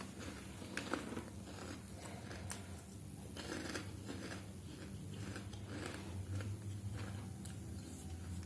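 A person chewing and biting into Indomie mie goreng fried noodles, with scattered small clicks and crunches over a low steady hum.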